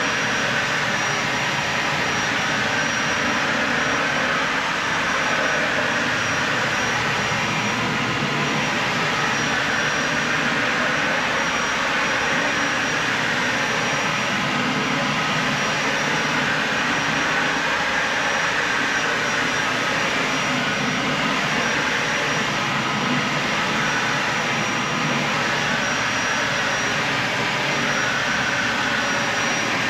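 Dyson Ball Animal 3 upright vacuum cleaner running steadily while being pushed over carpet: a constant rush of airflow with a thin high whine on top.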